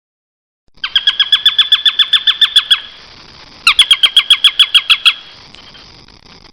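A bird calling in two runs of quick, evenly repeated notes, each note sliding down in pitch, about eight notes a second; the first run lasts about two seconds and the second, after a short pause, about a second and a half.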